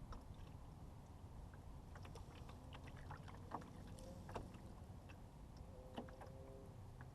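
Canoe out on the water: a quiet low wash of water and wind, with several light knocks and clicks of the paddle working against the hull.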